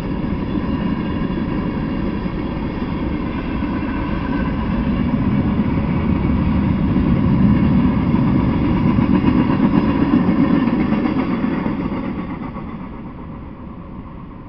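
Freight train of covered hopper cars and tank cars rolling past on the rails: a steady rumble of wheels on track that grows louder a little past the middle, then fades away over the last couple of seconds as the end of the train goes by.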